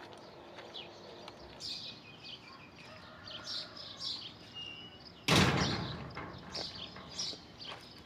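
Scattered footsteps and small knocks with birds chirping. About five seconds in, a sudden loud knock that fades over about a second.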